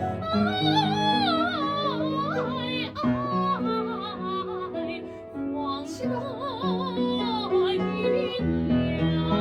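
A female soprano sings a flowing melodic line with strong vibrato over piano accompaniment.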